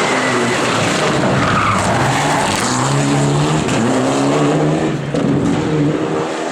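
Rally car engine revving hard as the car slides through a corner, with tyres skidding. The engine note climbs over about two seconds, then drops away about five seconds in.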